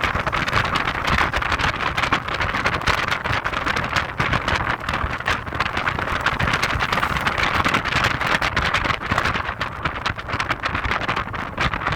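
Heavy wind noise buffeting the microphone, fluttering rapidly, over the low steady drone of an Audi TT 225 quattro being driven.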